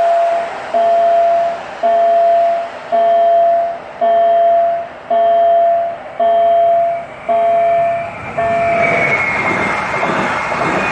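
Level-crossing warning signal sounding a repeated electronic tone about once a second. About eight seconds in, a passing train's rumble and a high steady whine take over.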